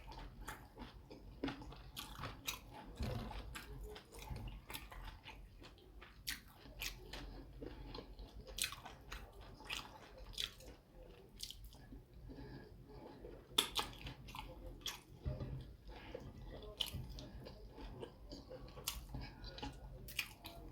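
Close-miked chewing and mouth smacking of a person eating fufu with soup, with irregular short wet clicks several times a second and one sharper click about two-thirds through.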